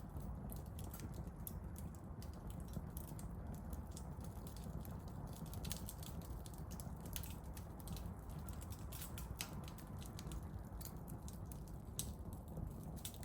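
Firewood burning in a small campfire, crackling with irregular sharp pops of varying strength over a low steady rumble.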